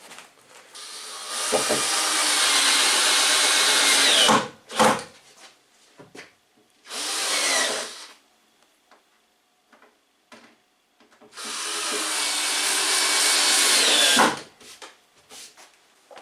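Electric drill running in three bursts, two of about three seconds and a short one of about a second, each ending with a sharp knock, with scattered clicks between the runs.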